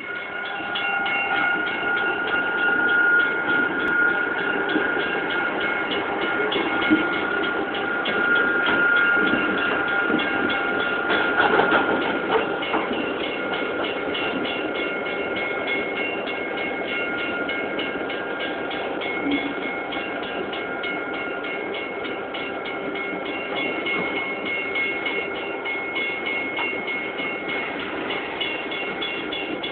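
A train rolling through a grade crossing, its wheels clattering over the rails. Several steady high-pitched tones run over it, louder in the first half.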